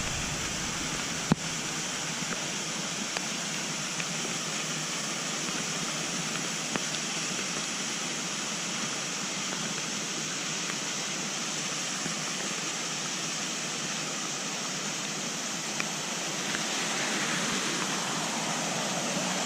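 Steady hiss of rain falling, with a few isolated light ticks.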